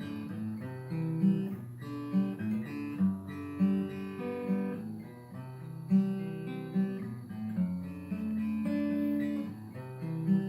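Acoustic guitar played, plucked notes and strummed chords ringing out in a steady rhythm, with no singing.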